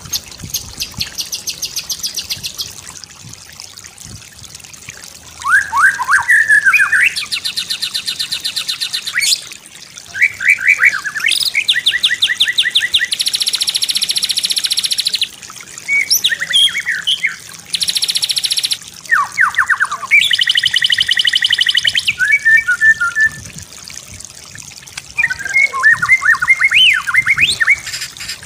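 White-rumped shama singing a varied song: quick descending whistled sweeps alternate with long rapid trills and high buzzy rattling phrases, one after another with short pauses.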